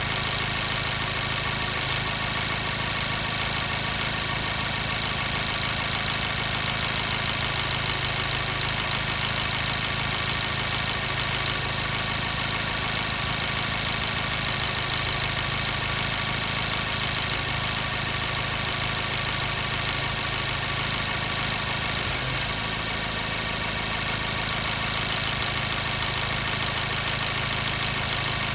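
2014 Mazda 3's 2.0-litre inline-four engine idling steadily as it warms up, with a misfire on cylinder 2.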